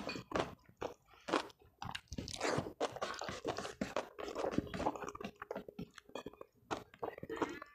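Close-miked chewing with repeated crunching as a person eats a mouthful of rice with crispy fried bits.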